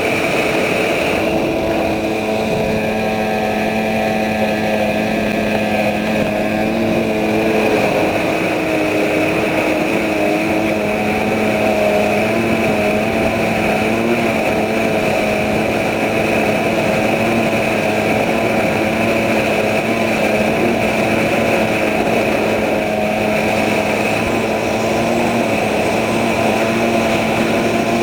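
Outboard motor of a Thundercat racing inflatable running hard at speed, its engine note wavering slightly up and down.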